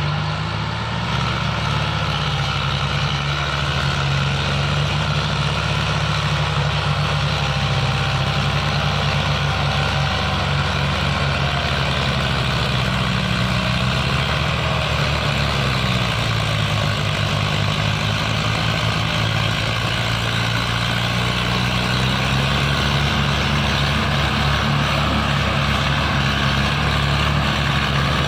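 Tractor engine running steadily with a low, even throb; the engine note dips slightly a couple of times around the middle.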